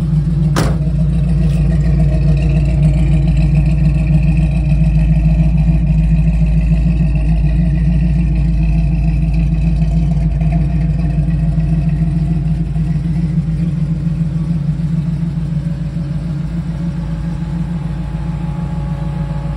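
396 cubic-inch big-block V8 of a 1968 Chevrolet Camaro idling steadily with a deep, even rumble. A single sharp knock sounds under a second in.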